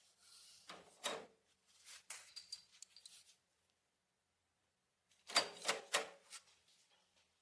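Small metal parts being handled and set down, clicking and clinking, with one bright click that rings briefly about two seconds in and a quick run of clicks and knocks near the end.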